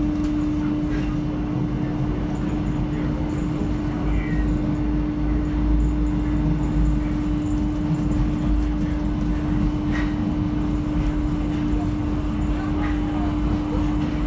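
Paris Métro line 7 MF 77 train heard from on board: a steady low rumble with a constant hum, and a few faint short high chirps.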